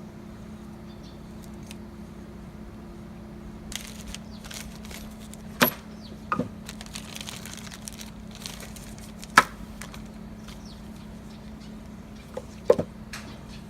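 Tools and metal engine parts being handled on a workbench: light rustling and a handful of sharp metallic knocks and clinks, the loudest about two-thirds of the way through. A steady low hum runs underneath.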